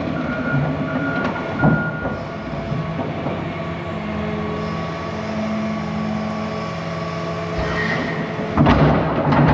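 Heavy diesel excavator, a John Deere 350G, running steadily as it is driven in on its tracks. A backup alarm beeps at an even pace for the first two seconds. The sound gets louder near the end.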